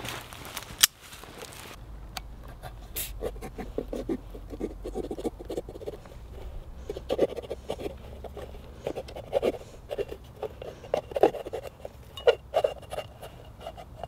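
Folding-knife blade cutting and scraping through the foil seal of a small metal fuel tin, a long run of short, irregular scratching strokes. There is one sharp click about a second in.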